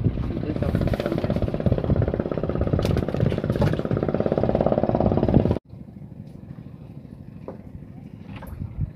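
An engine running steadily close by with a rapid pulse, which stops abruptly about five and a half seconds in; after that, quieter open-air background with a few faint clicks.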